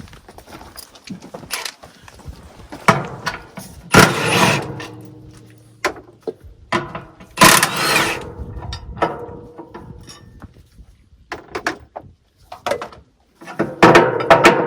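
Impact wrench run in several short bursts, with knocks and clanks between.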